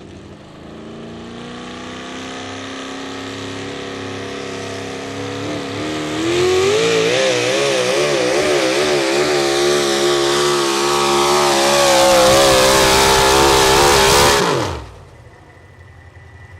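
Modified 4x4 pulling truck's engine at full throttle during a pull: the pitch climbs steadily, gets louder about six seconds in, and holds at high revs with a wavering pitch. Near the end the engine falls away sharply as the throttle comes off.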